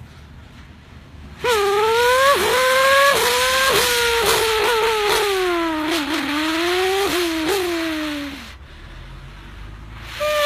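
A man's voice imitating a Formula 1 race car, lasting about seven seconds. The pitch climbs in repeated steps like an engine revving up through the gears, then falls away with short blips like downshifts as it slows.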